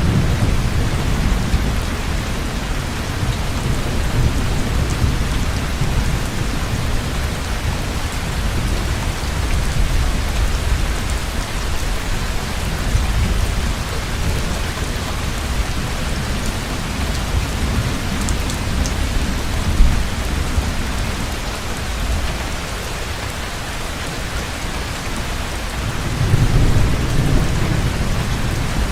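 Heavy rain pouring steadily in a thunderstorm, with low thunder rumbling at the start and again near the end, and one short sharp crack about two-thirds of the way through.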